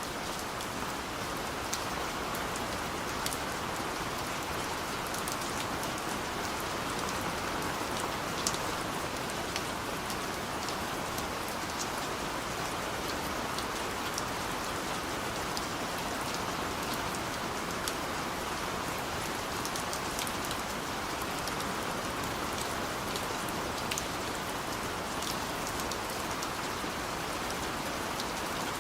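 Steady rain falling, an even hiss with scattered sharp drips of individual drops hitting a surface.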